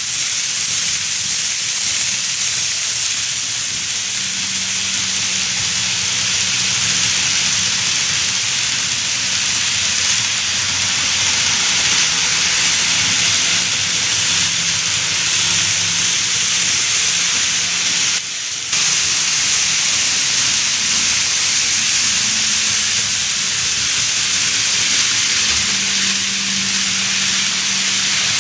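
N gauge model train of a 20-series sleeper express running on the layout track: a steady hiss of wheels and motor with a faint low hum, briefly dropping out about 18 seconds in.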